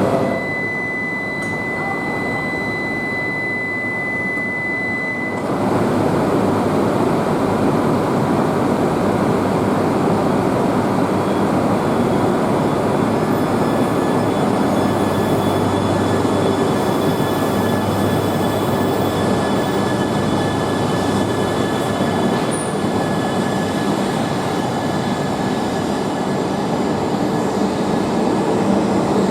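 Shinkansen train running along the platform: a steady rushing rumble of wheels and air, with a thin high whine for the first few seconds. The noise steps up about five seconds in and holds steady after that.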